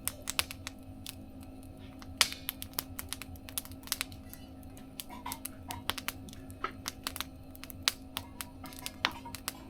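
Wood campfire crackling, with irregular sharp pops and snaps, a few louder than the rest.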